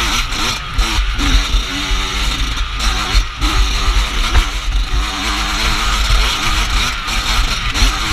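Dirt bike engine being ridden off-road, its revs rising and falling over and over as the throttle is worked, with a heavy rumble of wind on the microphone.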